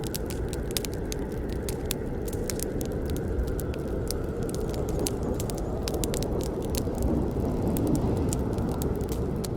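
Campfire burning: many sharp, irregular crackles and pops from the burning wood over a steady low rush of the flames.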